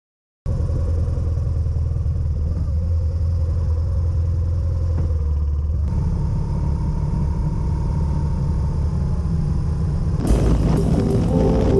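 Motorcycle on the move: a steady low rumble of engine and wind that cuts in abruptly after a moment of silence. Music comes in near the end.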